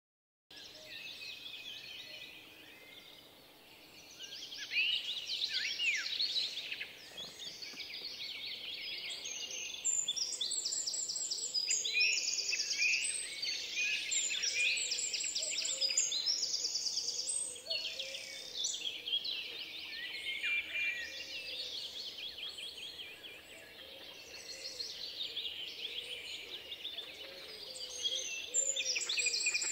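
Birds singing outdoors, many overlapping chirps, sweeping notes and rapid high trills.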